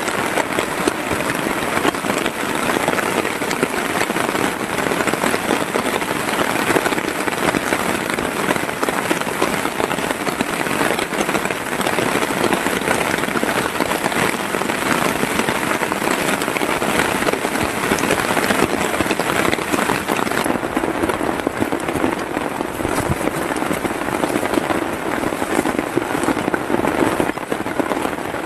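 Heavy rain falling steadily, a dense patter of countless drops hitting a surface.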